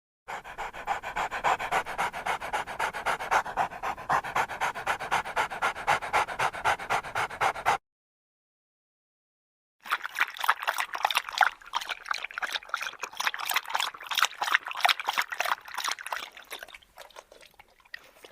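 Dog panting with fast, even breaths, in two stretches separated by about two seconds of silence; the second stretch grows fainter near the end.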